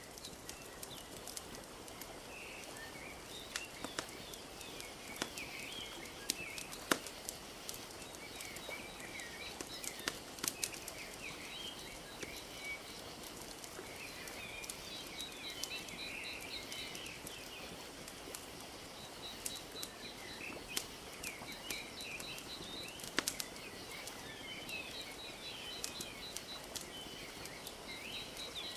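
Wood fire crackling with scattered sharp pops over a steady wash of gently lapping lake water, while small birds chirp continually and one repeats a rapid high trill several times.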